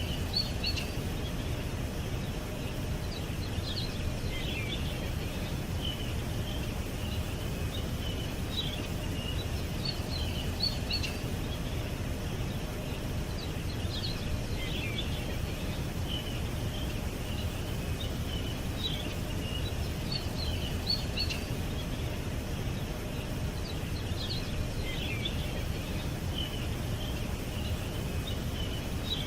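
Small songbirds chirping in short, high twittering bursts every few seconds over a steady low rumble of background noise.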